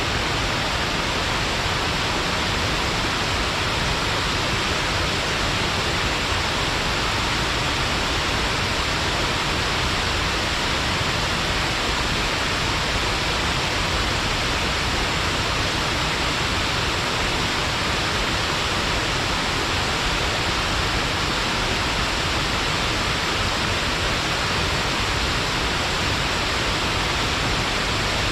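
Shiraito Falls, many thin threads of spring water falling over a low, wide rock face, giving a steady, even hiss of rushing water.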